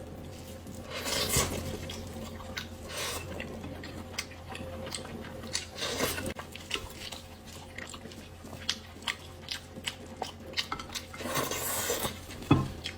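Eating sounds as a pig's head is eaten: biting and chewing with scattered clicks and short rustles, and a sharp knock of dish or cutlery near the end.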